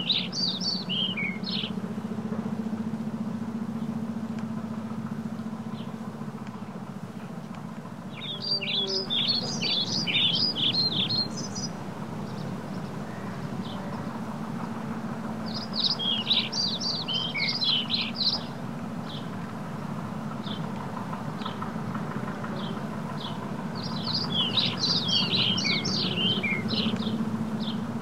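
A songbird sings a short, fast warbling phrase, heard four times several seconds apart. Under it runs the steady low hum and rolling noise of a moving eBike.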